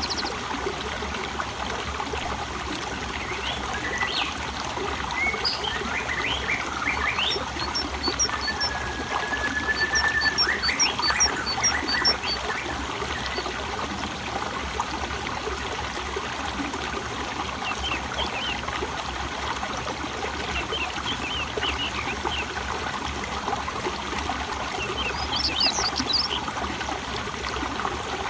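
Flowing water trickling steadily, with birds chirping over it. The birdsong comes in several runs of quick high notes and short upward chirps, with a brief even trill about eight seconds in.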